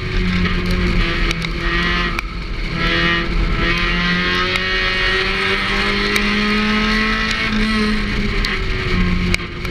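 Onboard sound of a Thunder-class stock race car's engine running hard at racing speed. Its note falls and rises as the throttle is lifted and reapplied, with a short lift near the end.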